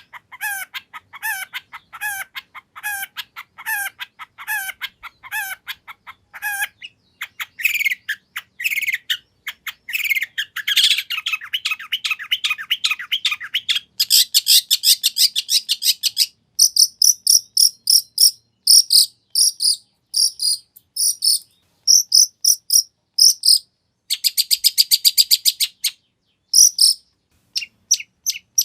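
Long-tailed shrike (cendet) singing a varied, full song. It opens with a run of repeated falling call notes, about two a second, then gives scratchy chatter, two rapid high trills and a string of short, sharp high notes. The song is typical of a shrike's borrowed phrases from other birds.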